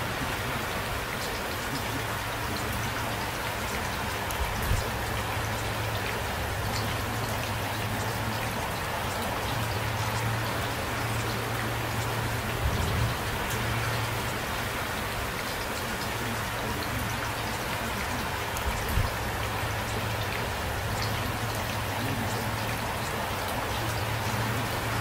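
Steady rain falling, with a few louder drops now and then.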